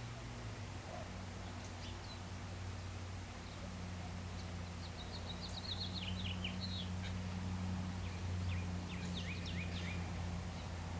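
Small birds chirping in quick series of short notes, a burst about two seconds in, a longer run in the middle and another near the end, over a steady low hum.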